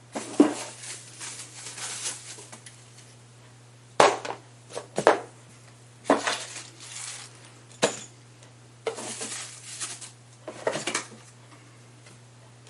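Hard objects being handled and set down: irregular knocks, clinks and short rattling clatters with pauses between them, over a faint steady low hum.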